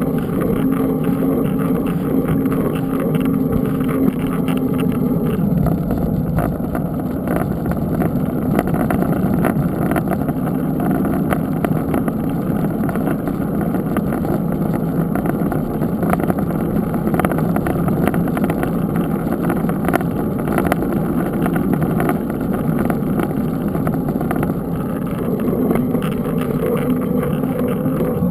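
Steady riding noise from a mountain bike on the move: wind buffeting the microphone and tyres rolling. A steady low hum runs for the first few seconds and comes back near the end.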